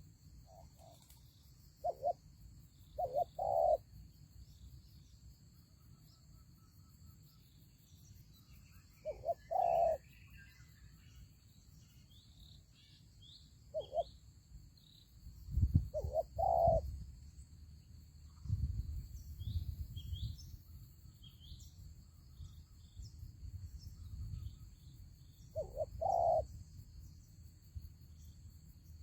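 Spotted doves cooing: short low phrases every few seconds, with faint high chirps of small birds behind them and a low rumble around the middle.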